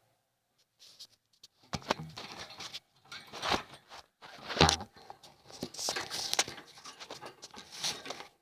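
Pet budgerigars chattering and chirping excitedly, in irregular bursts with a few sharp knocks, the loudest about halfway through.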